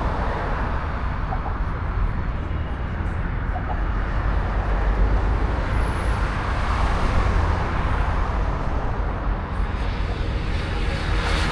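Steady road-traffic noise with a low rumble and no single standout event.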